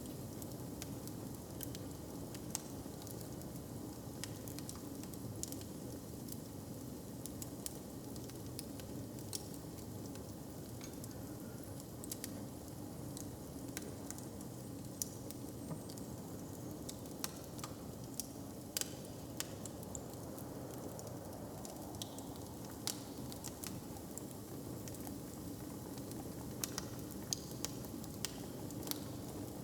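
Log fire crackling, with scattered sharp pops over a steady low background.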